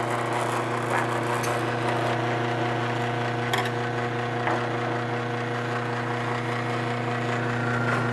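A freshly plugged-in mains-powered unit humming steadily with an electrical buzz, its vibration rattling against the hard surface it sits on. A few faint clicks or taps come through about a second in and again around three and a half and four and a half seconds.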